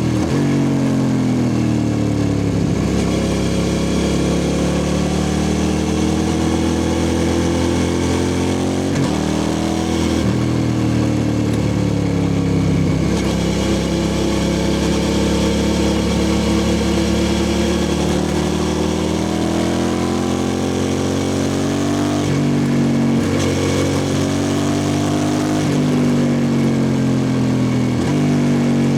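2003 Suzuki SV650S's 645 cc V-twin through a Lextek exhaust with no dB killer, running loud with its pitch rising and falling throughout. The pitch breaks abruptly about ten seconds in and again about twenty-three seconds in.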